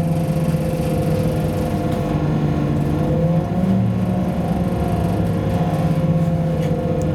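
A Class 172 diesel multiple unit running, heard from on board: the steady hum of its underfloor diesel engine and transmission over a rumble from the wheels and track, its pitch shifting briefly about three and a half seconds in.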